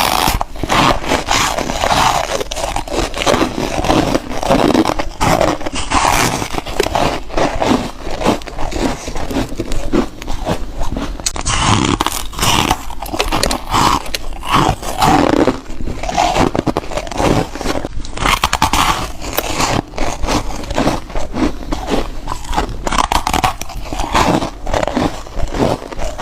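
Close-up biting and crunching of foam ice: one crisp, crackly crunch after another, packed close together and irregular.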